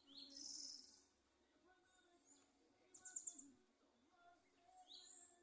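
Faint bird calls: short rising chirps, a buzzy high note at the start, and a quick high trill about three seconds in.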